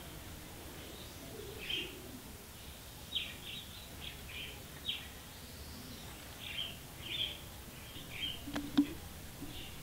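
Small birds chirping: short high chirps scattered all through. Near the end come a couple of sharp clicks and a brief low buzz, the loudest moment.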